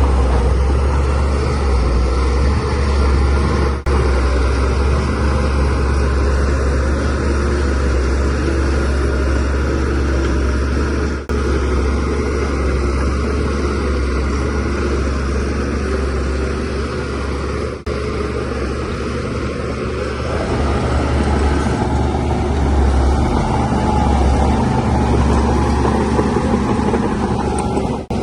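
DH17C3 bulldozer's diesel engine running as it works, a steady low drone.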